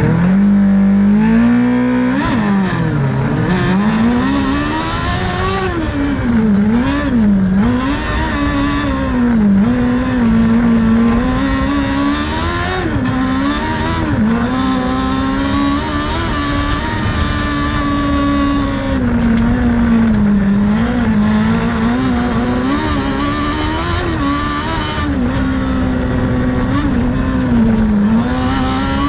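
Cross car's engine at high revs, climbing in pitch over the first two seconds, then rising and falling again and again as the driver accelerates and lifts off through the corners.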